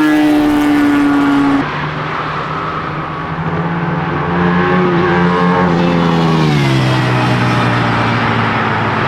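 Buell sport bike's V-twin engine being ridden hard. Its pitch holds, drops a step about one and a half seconds in, climbs slowly again, then falls off about two-thirds of the way through.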